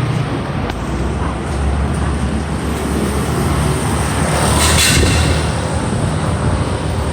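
A motor vehicle's engine running steadily with a low hum. A short hiss of air comes about four and a half seconds in.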